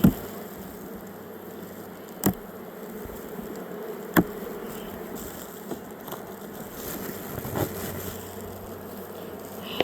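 Honeybees buzzing steadily around an open hive, broken by three sharp knocks in the first half and a softer one later.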